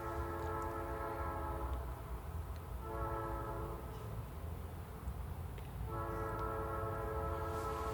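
Diesel locomotive air horn sounding a steady chord in a grade-crossing pattern: a long blast ending about two seconds in, a short blast about three seconds in, then another long blast starting about six seconds in. A low train rumble runs underneath.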